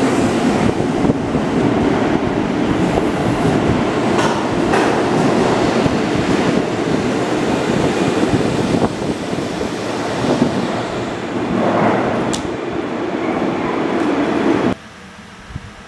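Keihan electric train running past an underground station platform, a steady rumble with the wheels clacking over rail joints and a short high squeak near the end. The sound cuts off abruptly about fifteen seconds in, just after the last car clears.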